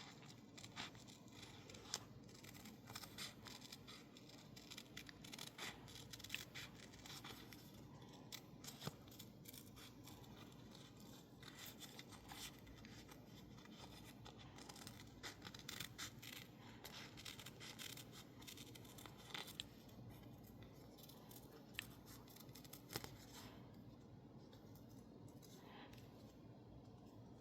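Scissors snipping out stickers of masking tape stuck on label paper: a run of quiet, irregular snips with light paper rustling, thinning out near the end.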